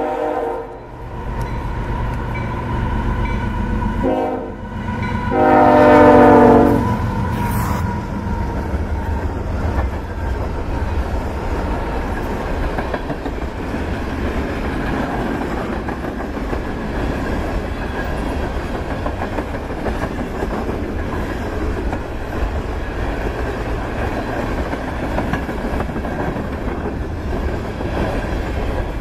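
Union Pacific GE ES44AC diesel locomotives leading a unit grain train. The air horn sounds a short blast about four seconds in, then a longer, louder one, and the train keeps up a steady low rumble as its covered grain hopper cars roll past on the rails.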